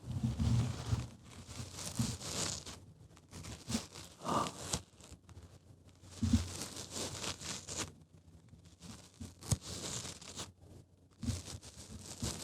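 Close-miked ASMR trigger sounds: irregular bursts of crinkling, crackling and tearing-like noise, with a few soft knocks and short pauses between bursts.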